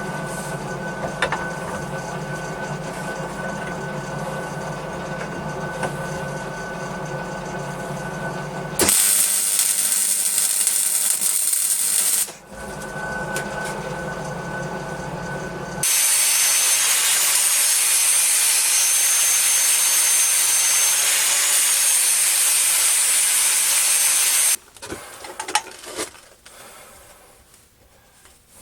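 A power tool working metal, running in spells: a steady humming run at first, then a louder, hissing stretch with a high whine in the middle. It stops about three-quarters of the way through, leaving a few light clinks near the end.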